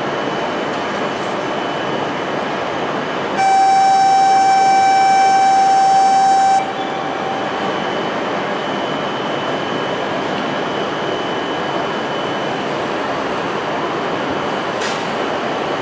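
Steady hum of an E5 series shinkansen standing at the platform, with a faint high whine. About three seconds in, a loud steady horn-like tone sounds for about three seconds and cuts off.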